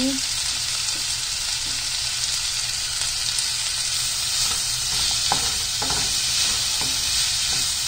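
Diced zucchini sizzling steadily in hot oil in a nonstick kadhai while a wooden spatula stirs it, with a few light scrapes and knocks of the spatula from about five seconds in.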